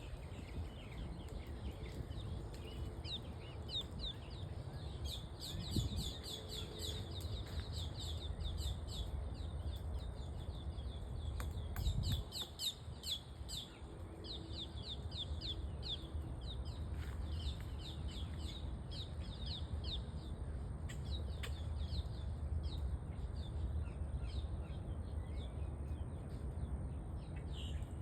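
Birds chirping outdoors: rapid runs of short, high, falling chirps, several a second, with a few isolated sharp taps. A steady low rumble of wind or handling noise runs under it.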